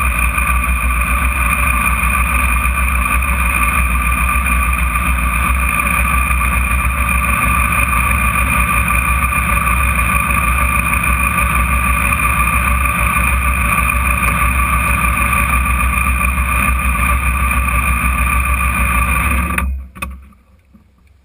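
Radical sports-racer's engine running steadily at idle, then switched off near the end, the sound cutting off abruptly.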